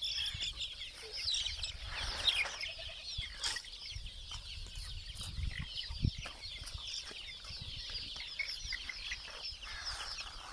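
A flock of free-range chickens clucking, with a dense chatter of many short, high calls. There is a low rumble underneath and a single thump about six seconds in.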